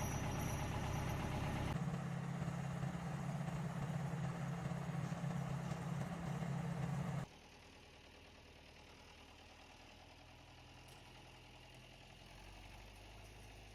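Tractor engine running hard, pulling on a chain, with a steady low note that shifts about two seconds in. About seven seconds in the sound drops off abruptly, leaving only a faint low hum.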